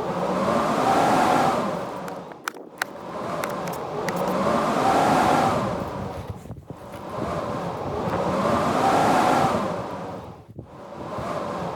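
Blizzard wind howling in gusts, each swelling and rising in pitch, then falling away, about every four seconds, with a few sharp clicks in the lulls.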